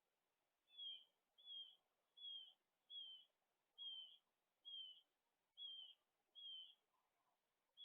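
A bird calling: a series of about nine short, high, downslurred notes, evenly spaced a little under one a second.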